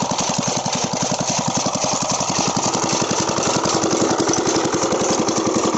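Old single-cylinder Petter diesel engine running steadily, with a fast, even chugging of about ten firing beats a second.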